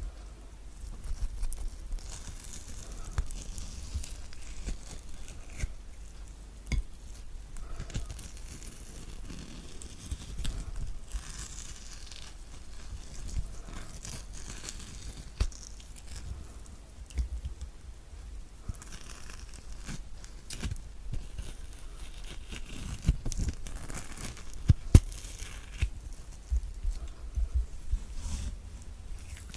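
Kiwi fruit being scooped out with a spoon under a close microphone: irregular wet scraping and soft tearing of the flesh, with scattered sharp taps. A few louder taps come near the end.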